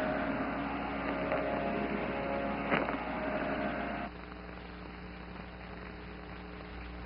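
Steady low hum with faint held tones and a single click about three seconds in; about four seconds in it drops suddenly to a quieter hum and hiss.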